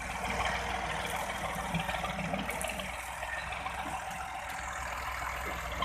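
Tractor engine running steadily with a dense mechanical rattle.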